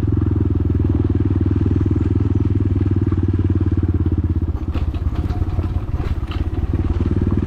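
Motorcycle engine running while riding, with a steady low pulsing note. About halfway through the note eases and turns uneven, and a few knocks and rattles come through.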